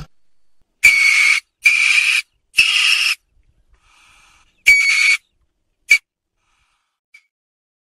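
A weasel's squeaky calls, a string of short half-second bursts. Four loud ones and a fainter one come in the first five seconds, then two brief chirps.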